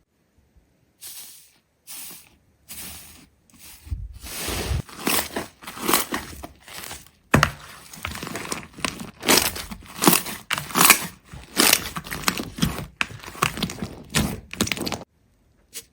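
Close-up crinkling and crunching of a material being handled, in irregular short bursts that start after about a second, grow denser and louder with a few low thumps, then cut off suddenly near the end.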